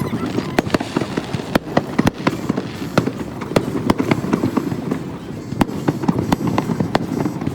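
Aerial fireworks going off: a rapid, irregular series of sharp bangs and cracks, about two to three a second.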